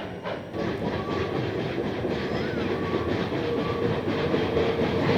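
Passenger train hauled by Santa Fe 3759, a Baldwin-built 4-8-4 steam locomotive, rolling along the rails with a steady running clatter.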